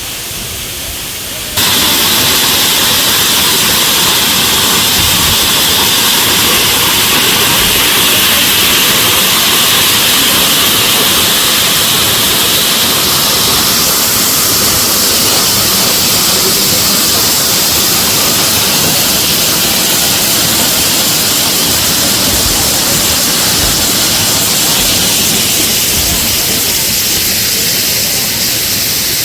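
Waterfall: a loud, steady rush of falling water that jumps suddenly louder about a second and a half in.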